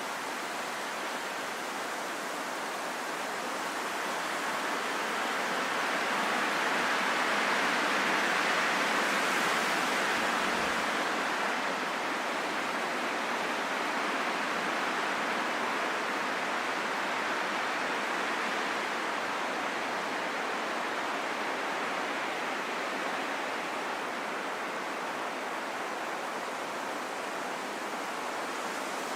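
Wind blowing in a steady rush, swelling louder in the first third and then easing back to an even level.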